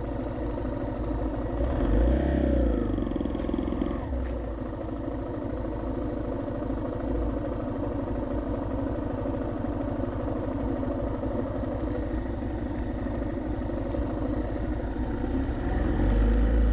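Motorcycle engine running steadily while riding, mixed with road noise. A brief wavering tone rises and falls about two seconds in.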